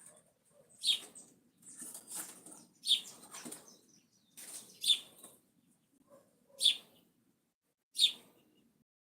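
Short, sharp bird calls repeated about every one to two seconds, with fainter chirping between them.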